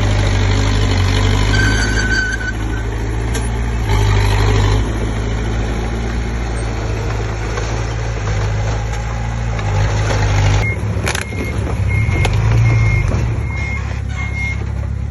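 Komatsu D20P bulldozer's diesel engine running steadily under work. In the second half a reversing alarm starts beeping, about six short high beeps at an even pace.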